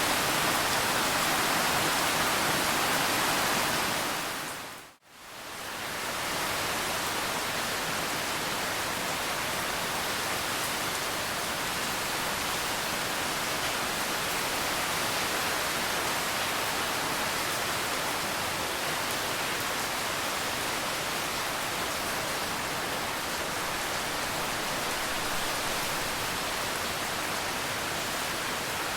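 Steady rain, a dense even hiss. About five seconds in it fades out to silence and fades back in about a second later.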